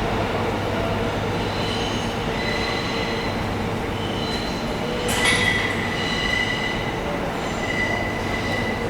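Train rolling slowly on the rails, its wheels squealing in high tones that come and go, with a sharp metallic screech about five seconds in.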